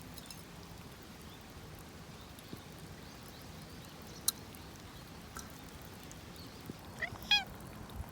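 Faint steady rain noise, with one sharp click about four seconds in and a short, harsh animal call with a bending pitch near the end.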